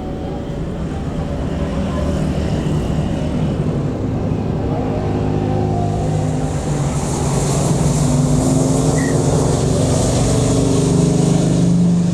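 Jet airliner engine noise: a steady loud rushing hum that grows louder from about halfway through, with a high hiss building up on top.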